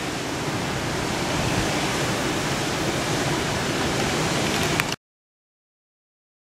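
Steady rushing noise of a river swollen in flood by typhoon rain, mixed with wind on the microphone; it cuts off to dead silence about five seconds in.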